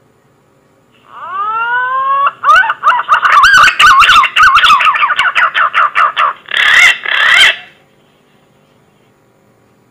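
Green pigeon (punai) whistled song from a bird-lure recording: a rising whistle about a second in, then a fast run of wavering, warbling whistles, ending in a louder, rougher burst around seven seconds. A low steady hum runs underneath.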